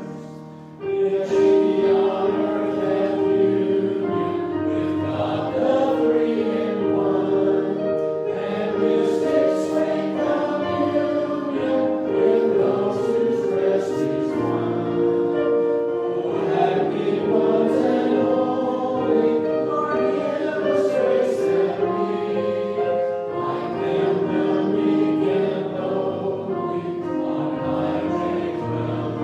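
Choir singing a hymn with instrumental accompaniment, in sustained phrases, after a brief dip in level about a second in.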